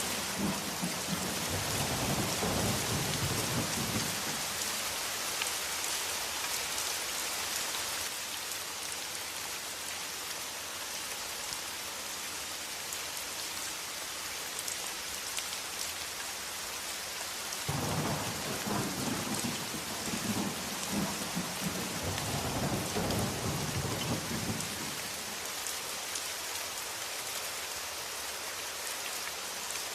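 Steady heavy rain hissing, with thunder rumbling twice: a rumble dying away in the first few seconds, and another rolling in a little past halfway and lasting several seconds.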